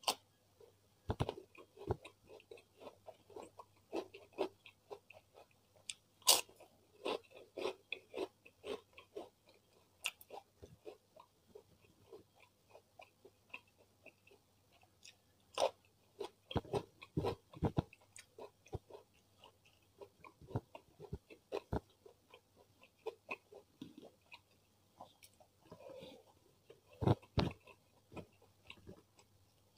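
Close-miked chewing of a mouthful with crisp bites into raw cucumber and long bean, irregular sharp crunches scattered throughout, the loudest about six seconds in and again around seventeen and twenty-seven seconds.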